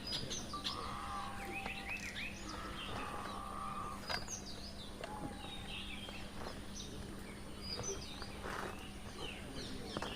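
Forest ambience with several birds chirping and whistling in short calls throughout, over a faint steady low hum.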